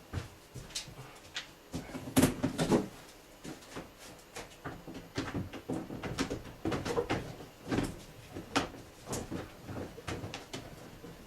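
Irregular knocks, clicks and clatter of tools and car parts being handled during reassembly, loudest about two seconds in.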